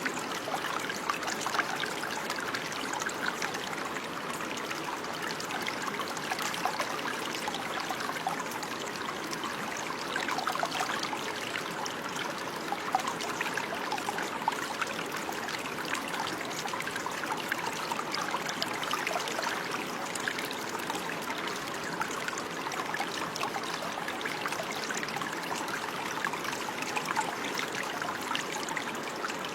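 Running water, a steady trickle with many small splashes and no change in level.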